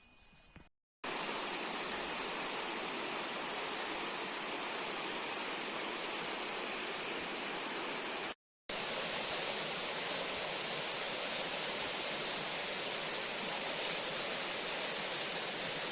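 Steady rushing of flowing forest water, a stream or waterfall, with a steady high hiss over it. It cuts out twice for a moment.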